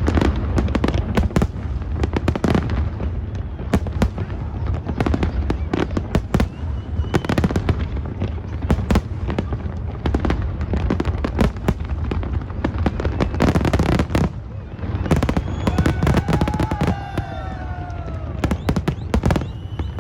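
Fireworks display: a dense, irregular string of bangs and crackling bursts over a continuous low rumble, easing briefly about two-thirds of the way through.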